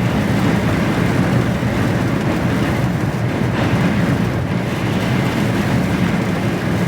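Steady rumble inside a moving HGV lorry cab, with engine, tyre and storm-wind noise blended together while driving through strong winds.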